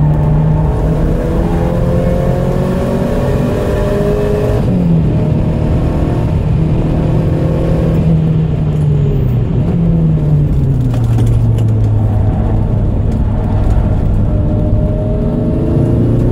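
Porsche 944 Turbo's turbocharged four-cylinder engine under hard acceleration, heard from inside the cabin: the revs climb, drop at an upshift about five seconds in, then climb again. About ten seconds in, the revs fall off and hold lower as the car slows for a corner, then start rising again near the end.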